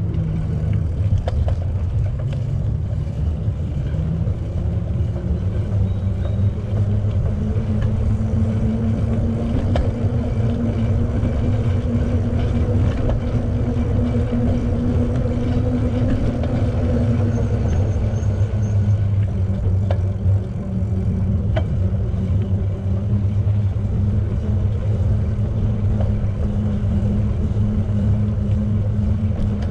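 Steady rumble of riding a bicycle as picked up by a camera on the bike: wind buffeting the microphone and tyre noise on the path, with a faint hum that drifts slightly in pitch with speed.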